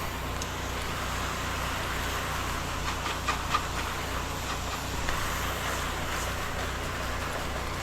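Steady hiss of a soft-wash spray over the constant low hum of the generator-driven pump rig, with a few faint clicks about three seconds in.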